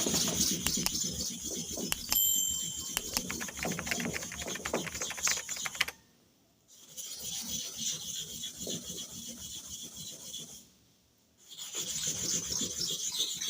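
Metal clipper blade rubbed rapidly back and forth on a sharpening stone, a dense scraping rasp. The rubbing stops briefly about six seconds in and again about eleven seconds in, then resumes each time.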